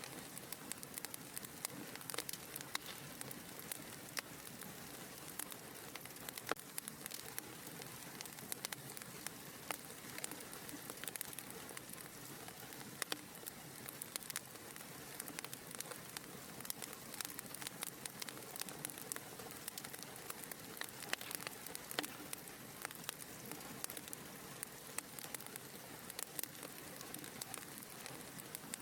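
Wood fire burning in a fireplace: a steady soft hiss with frequent small, irregular crackles and pops.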